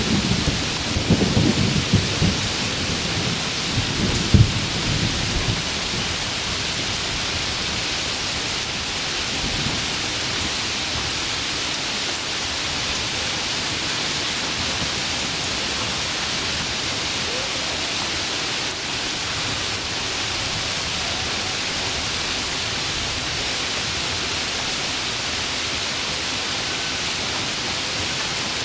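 Heavy rain falling steadily with an even hiss. Low thunder rumbles through the first few seconds and dies away about five seconds in, leaving only the rain.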